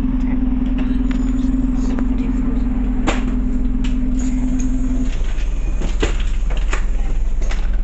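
Scania OmniCity bus heard from inside the saloon: the engine running at a steady note over a low rumble, with rattles and knocks from the body. About five seconds in, the steady engine note drops away.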